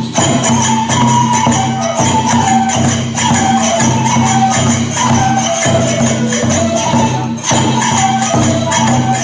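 Kagura accompaniment for a shrine dance: a flute-like melody stepping from note to note over regular drum strokes, with jingling small hand cymbals keeping the beat.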